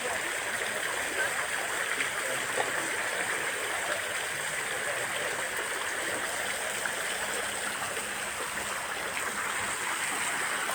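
Steady rush of flowing stream water, with no distinct splashes.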